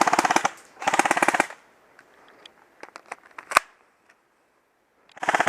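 Airsoft guns firing on full auto in short bursts of rapid shots: one at the start, another about a second in, and a third just at the end. Between them come scattered single pops and clicks, one of them sharp and loud.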